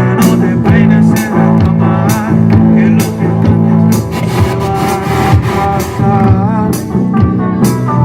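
A live band playing rock-style music: electric guitar chords and a wavering lead line over a drum kit with regular beats and cymbal strikes.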